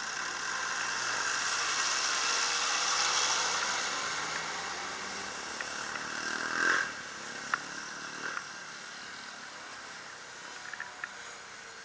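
A vehicle's engine driving past, swelling and then fading away, with a short louder burst about two-thirds of the way through and a few sharp clicks after it.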